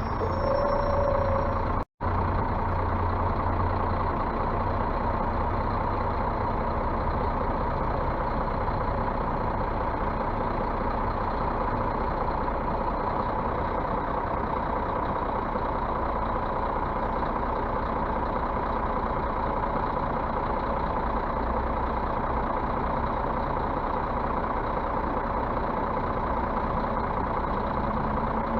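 Scania bus running steadily, a constant engine drone with a steady whine. A short pitched tone sounds in the first second, and the sound cuts out for an instant about two seconds in.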